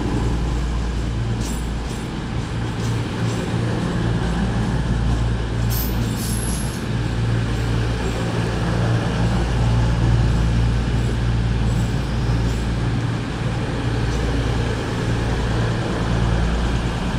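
Diesel train engine running steadily with a low, even hum, with a short hiss about six seconds in.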